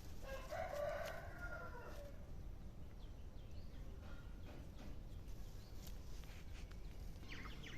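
A rooster crowing once, a call of about a second and a half near the start, over a steady low rumble, with a few faint high bird chirps near the end.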